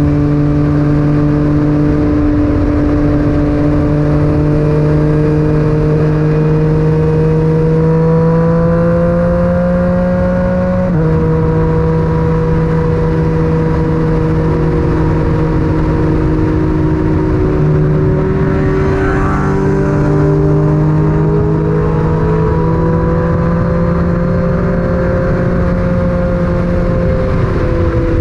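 Yamaha MT-09's three-cylinder engine through an Akrapovic titanium exhaust, heard onboard while riding: the engine note climbs slowly for about ten seconds, drops sharply about eleven seconds in as the bike shifts up a gear, then runs at a fairly steady cruise with small rises and falls. A low wind rumble lies underneath.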